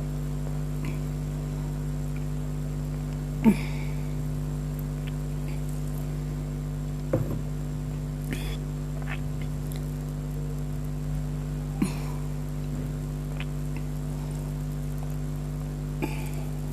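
Steady electrical hum with five short, sharp clicks or knocks spread through it, the loudest about three and a half seconds in.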